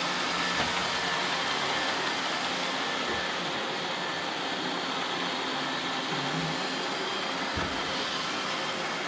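Roomba robot vacuums running together: a steady whir of suction fans and brushes. A short low bump about seven and a half seconds in.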